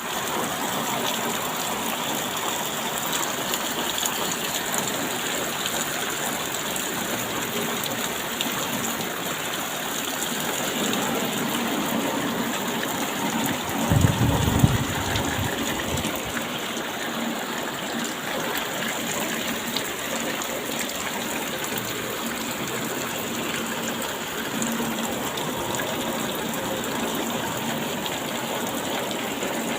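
Steady rain, an even hiss of falling water, with a brief low rumble about halfway through.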